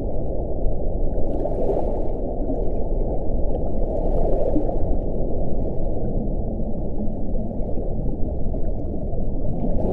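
Deep, steady wind noise, low and muffled, with gusts swelling briefly about two seconds in and again about four seconds in.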